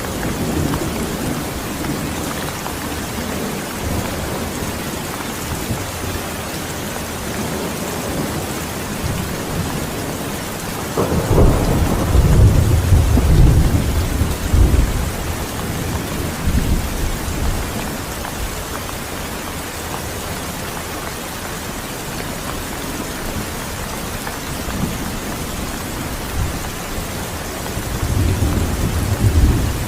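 Steady rain falling, with thunder rolling in: a long low rumble builds about 11 seconds in and lasts several seconds, and another rumble rises near the end.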